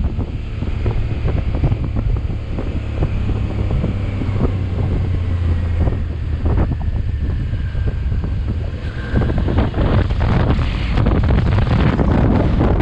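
Motorcycle riding along, its engine running under heavy wind buffeting on the microphone; the wind noise grows louder about nine seconds in.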